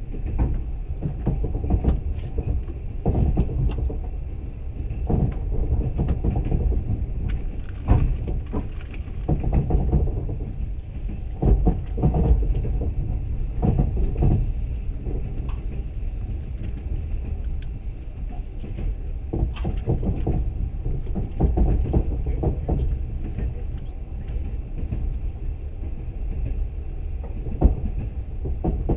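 Running noise of a moving passenger train heard from inside the carriage: a continuous low rumble with frequent irregular knocks and rattles.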